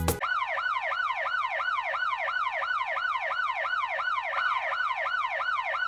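Electronic siren sound effect: a fast, even wail that sweeps up and down in pitch about three times a second, with no pause.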